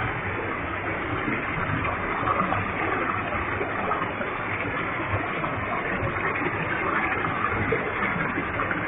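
Waterfall with a heavy flow of water: a steady, unbroken rush of falling water with no change throughout.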